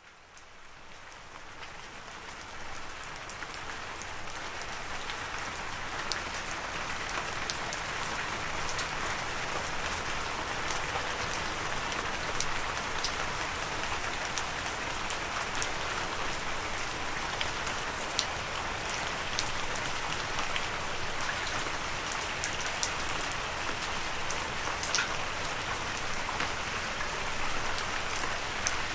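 Steady rain falling, with many single drops ticking sharply on a surface. It fades in from silence over the first few seconds, then holds even.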